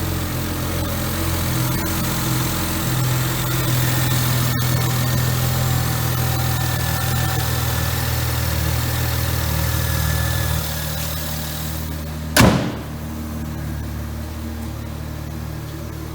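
2007 BMW 335i's N54 twin-turbo inline-six idling steadily; about ten seconds in the idle note drops a little quieter. Shortly after, a single sharp thump is the loudest sound, and the engine keeps idling.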